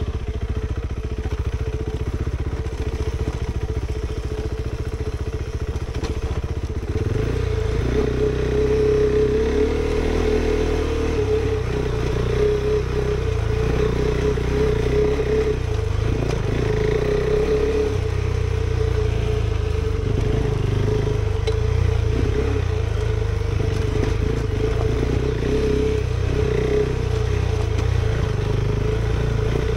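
KTM 390 Adventure's single-cylinder engine, fitted with an aftermarket exhaust, running under changing throttle as the bike is ridden, its note shifting often, most markedly about seven seconds in.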